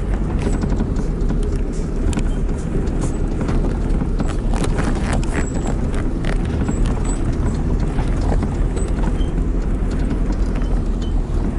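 Vehicle on the move: steady engine and road rumble with frequent small knocks and rattles.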